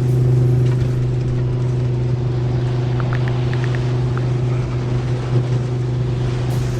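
Steady engine and road hum of a moving car, one low pitch that holds throughout. A few faint clicks come about three seconds in.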